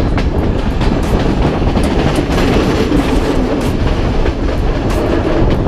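A passenger train heard from on board while running along the track: a steady rumble with sharp clicks of the wheels over the rail joints at uneven intervals.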